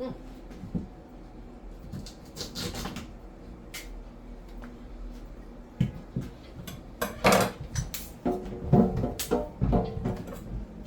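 Cooking pots and utensils clattering: scattered knocks and scrapes, with a run of louder knocks in the second half.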